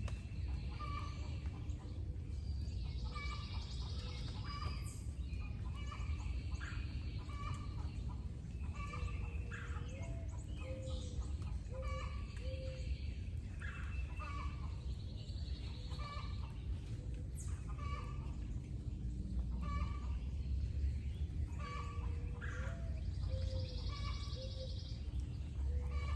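Birds calling repeatedly, short pitched calls every second or so, some of them bending in pitch, over a steady low rumble.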